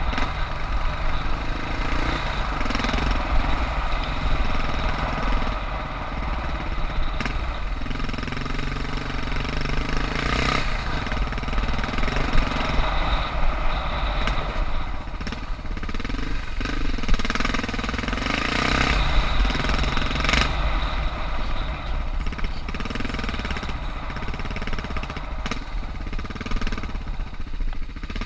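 Suzuki DR650's single-cylinder four-stroke engine running at low revs while riding off-road, its note rising and falling every second or two with the throttle. Scattered sharp knocks come through over it.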